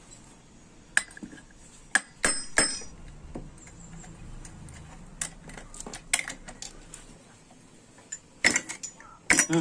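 Metal tools and parts clinking and knocking against each other in separate sharp strikes, with a cluster of several quick clinks near the end, typical of work on a moped's metal parts during restoration.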